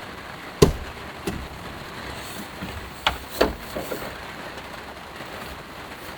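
Steady hiss of heavy rain on a small van, with about six sharp knocks. The loudest knock comes about half a second in, and the others come in a cluster around three to four seconds.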